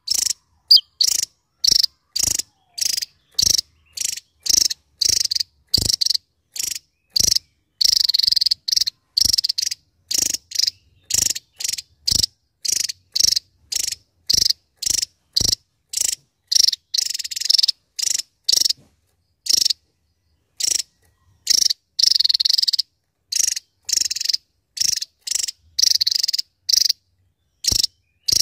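Javan tesia singing: short, high, rapid trilled bursts repeated back to back, about one and a half a second, with a few longer phrases among them and abrupt silent gaps between.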